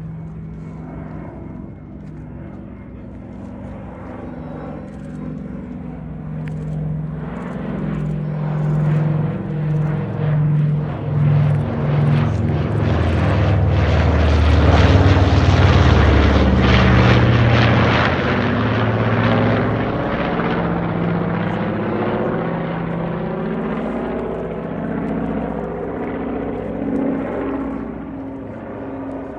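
Grumman F7F-3 Tigercat's twin Pratt & Whitney R-2800 radial engines passing in a low flyby. The propeller-engine drone builds up, is loudest about halfway through, then fades as the plane moves away.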